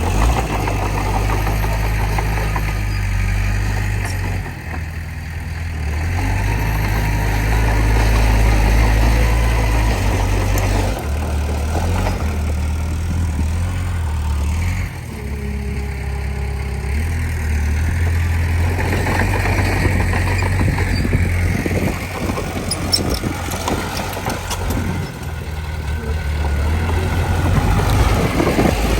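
Heavy diesel engine of earthmoving machinery running under changing load, its low note shifting up and down every few seconds.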